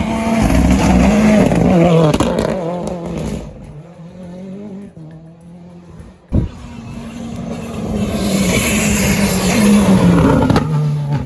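Rally cars going through at full speed: a loud engine run fades over the first few seconds. A sharp knock comes about six seconds in, then a second car's engine and tyres build up loud and cut off suddenly near the end.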